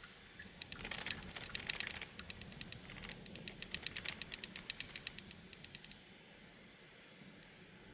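Raindrops tapping on the car body in a quick irregular run of sharp ticks, several a second, that thins out and stops near the end, over faint steady road noise.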